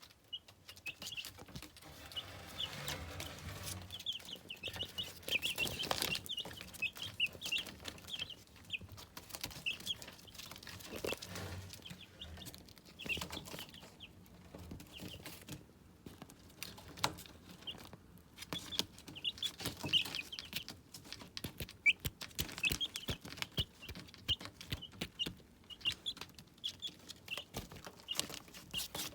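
Ten-day-old chicks peeping: a steady stream of many short, high peeps, with scattered short clicks and taps among them.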